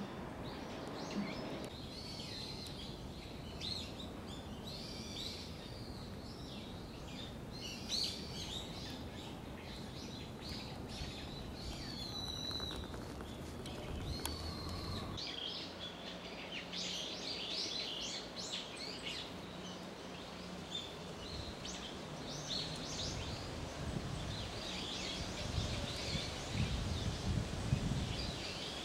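Small birds chirping and calling again and again over steady outdoor background noise, with a few low rumbles near the end.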